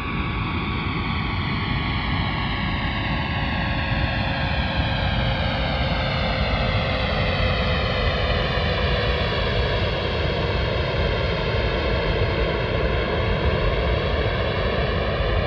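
Computer-simulated jet aircraft flying overhead, recreated by NASA's Aircraft Noise Prediction Program: a loud, steady rush of engine noise with a few whining tones that slowly fall in pitch as it passes. A hollow, sweeping quality moves through the noise.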